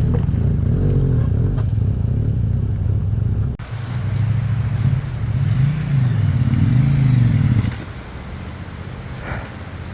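Motorcycle engine running and revving up and down repeatedly, its pitch rising and falling. The sound changes abruptly about a third of the way in, and the engine note falls quieter near the end.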